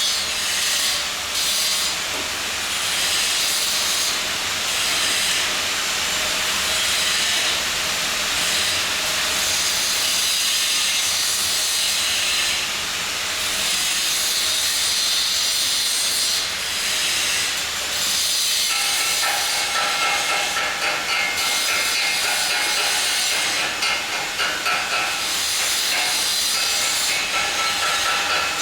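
Welding arc hissing and crackling steadily. About two-thirds of the way in, a pitched whine joins it and the noise turns choppier.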